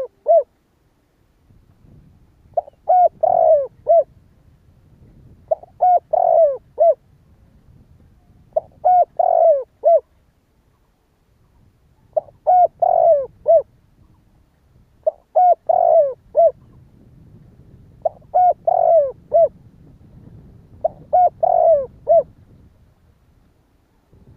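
Spotted dove cooing: the same short phrase of several low, slightly falling coo notes, repeated about every three seconds, seven times over. Between the phrases there is a faint low rumble of background noise.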